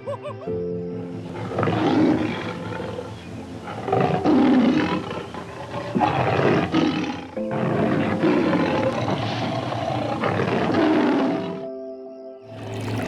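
Big cat roaring and growling repeatedly over background music with steady held notes.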